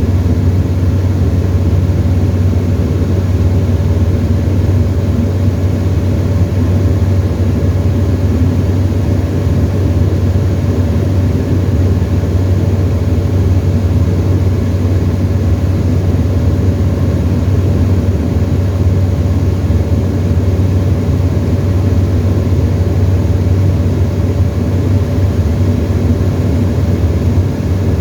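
Tecnam ultralight airplane's piston engine and propeller droning steadily in flight, heard from inside the cockpit, with no change in pitch or level.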